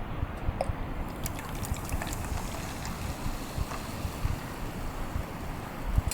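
Wind buffeting the microphone: a gusty low rumble with a few faint clicks.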